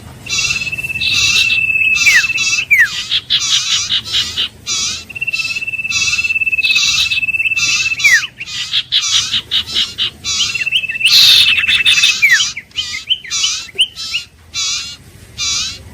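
Common iora singing: a long steady whistle that ends in a falling slur, given three times, amid quick repeated short chirps.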